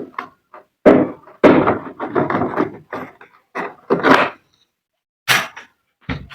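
Knocks, clunks and rattling of a top-load washing machine's plastic top panel being worked loose and opened up by hand, with a sharp scrape near the end.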